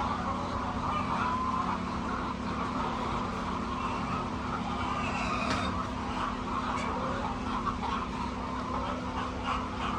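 A steady mechanical hum, with a flock of chickens calling over it.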